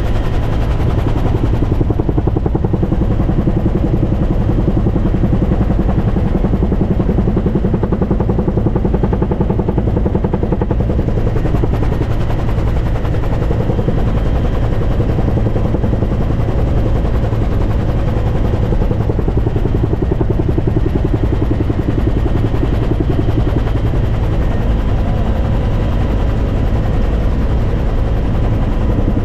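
A helicopter running loud and steady, its rotor beating rapidly under a steady engine whine.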